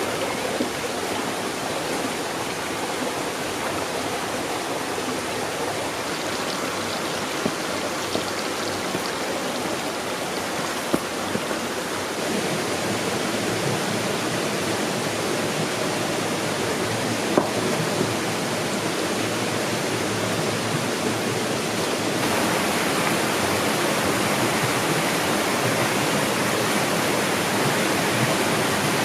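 Waterfall: a steady rush of falling water, growing slightly louder about three quarters of the way through.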